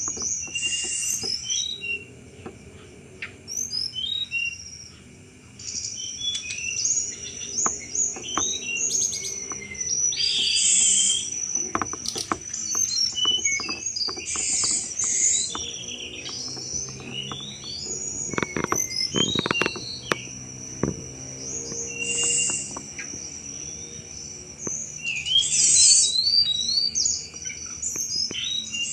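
Hill blue flycatcher singing, with bursts of quick chattering chirps and trills that come again and again, over a steady high-pitched drone.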